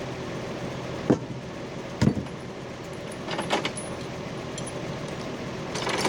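Vintage army 4x4 truck's engine running steadily, with two sharp knocks about one and two seconds in and short bursts of metallic rattling around the middle and near the end.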